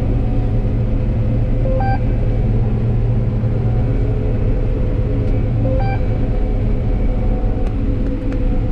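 John Deere 9760 combine running steadily under harvest load, a continuous diesel engine and machinery rumble heard from inside the cab. A short two-note electronic beep from the cab sounds twice, about four seconds apart.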